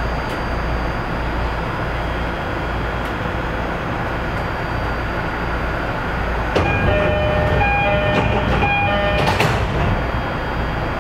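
Electric commuter train running along the track with a steady rumble. About six and a half seconds in, a ringing, pulsing bell like a railway level-crossing alarm sounds for a few seconds as the train passes, ending in a brief rush of noise.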